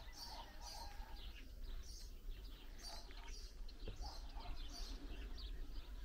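Small birds chirping and twittering, many short high calls overlapping throughout, over a low steady rumble.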